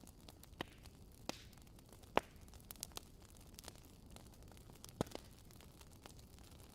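Wood fire crackling: irregular sharp pops and snaps over a low, steady hiss. The loudest pop comes about two seconds in and another about five seconds in.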